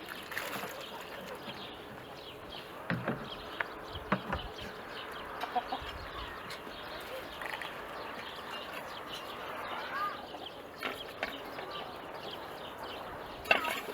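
Chickens clucking now and then, with a few sharp knocks and clatter.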